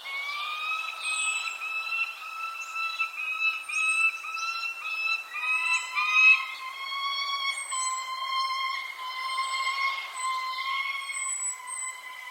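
Birds chirping with short, high, falling calls repeated throughout, over a loud, sustained whistling tone that pulses about twice a second and then drops a little in pitch and holds steady about five seconds in.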